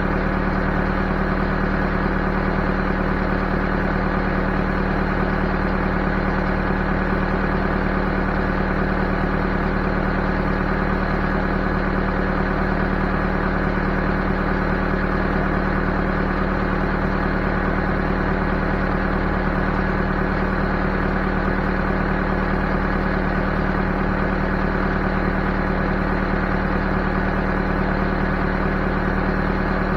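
Backhoe's diesel engine running at a steady, unchanging speed.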